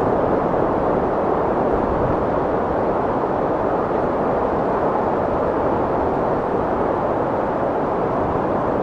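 Strong wind blowing in a steady, even rush.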